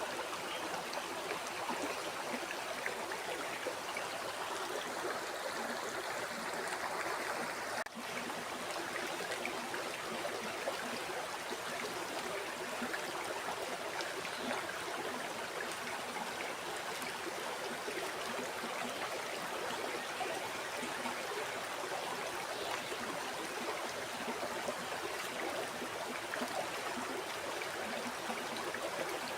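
Flowing river water rushing steadily, an even splashing wash, with a momentary dip in sound about eight seconds in.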